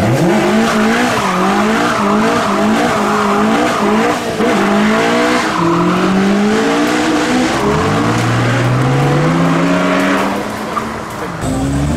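A car engine revved hard, its pitch swinging quickly up and down, with tyres squealing and skidding as the car leaves the show. About eight seconds in, an engine climbs steadily in pitch as a car accelerates away.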